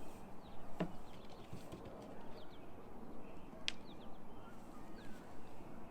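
Outdoor background noise with faint, scattered bird chirps and two sharp clicks, one about a second in and one near the middle.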